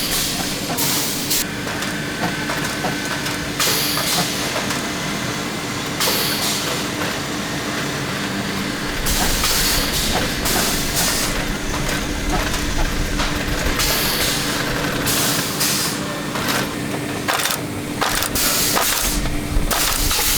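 Boot-factory machinery running with a steady hum, broken by repeated bursts of hissing noise.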